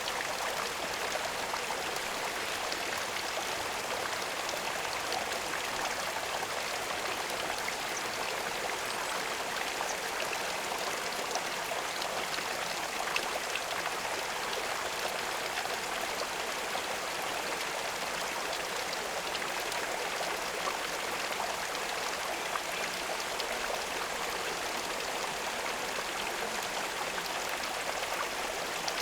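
Running water trickling and splashing steadily, an even hiss with small scattered drips and ticks.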